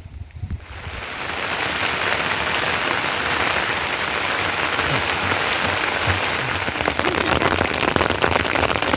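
Heavy rain falling steadily on surfaces, a dense even hiss that starts abruptly less than a second in.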